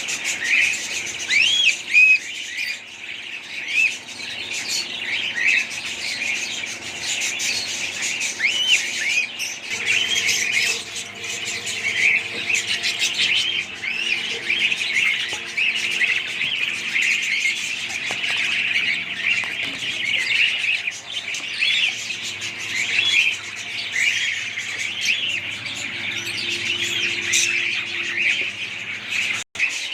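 A group of small parrots chirping and squawking together in dense, overlapping chatter.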